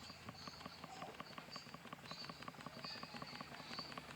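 Faint, irregular crackling and ticking of a small fire of ganja, orange peel and charcoal burning, with a high chirping of insects now and then.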